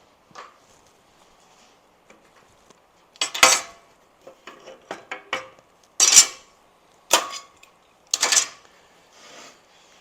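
Loose steel parts clanking and knocking against each other and the metal work surface as they are handled: four loud metallic clanks with lighter taps between them.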